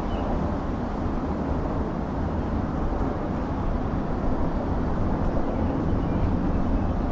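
A steady low rumbling noise, strongest in the bass, with no distinct events.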